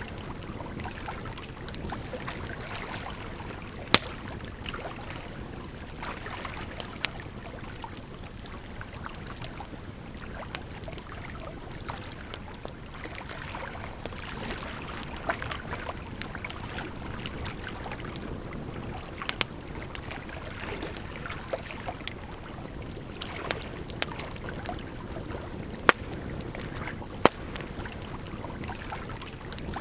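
Burning firewood crackling, with sharp pops every few seconds, over a steady sound of running water.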